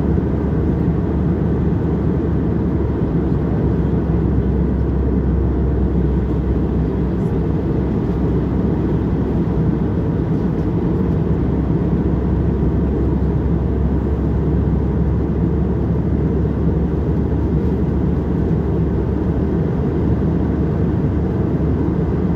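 Airliner engines and airflow heard from inside the passenger cabin as a steady low rush that does not change.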